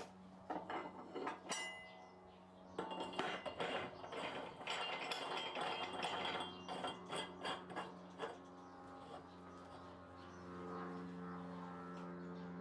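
Metal clinking and knocking, a dense run of sharp hits through the middle, over a steady low hum.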